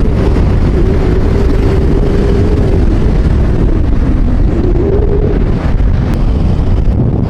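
Jeep running down the road: steady engine and road rumble with wind buffeting the microphone, and a faint engine tone that dips a little past halfway, then rises again.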